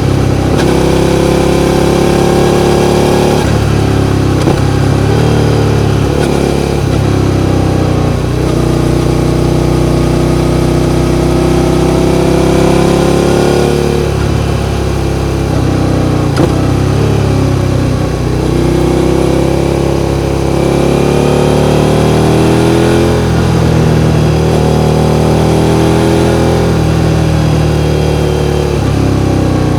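Suzuki SV650's 645 cc V-twin engine running under throttle, its pitch climbing over a few seconds and then dropping, again and again.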